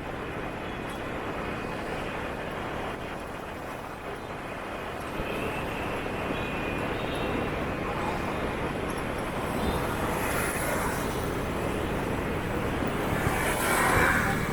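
Steady motorbike and scooter traffic noise heard from a moving motorbike: engines and road noise blend into a continuous hum. It grows a little louder after about five seconds, and a couple of vehicles swell past near the end.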